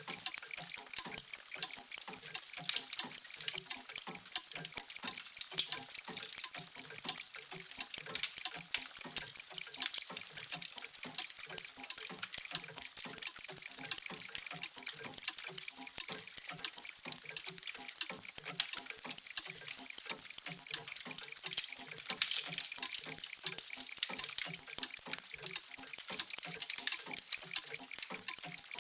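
Many mechanical clocks ticking at once. Their ticks overlap into a dense, even stream of sharp clicks, with softer, lower ticks underneath.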